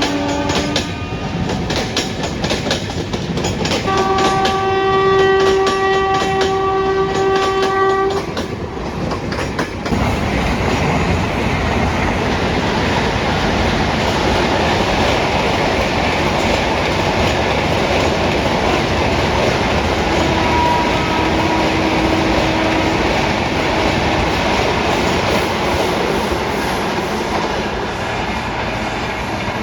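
Indian Railways electric locomotive horn: a short blast ends about a second in, and a longer blast of about four seconds follows. Then a train passes at speed, a steady loud rumble of wheels on rail with clicking over the rail joints.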